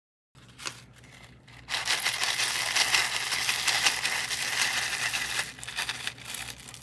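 Plastic packaging crinkling and crackling as it is handled and torn open, dense and loudest from about two seconds in, easing off near the end.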